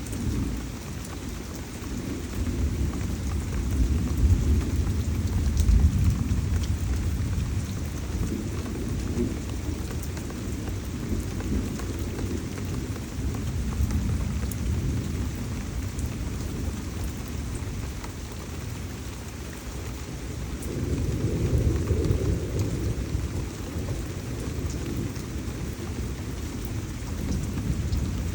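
Heavy tropical rain pouring steadily, with thunder rolling twice, a low rumble swelling a few seconds in and again past the middle.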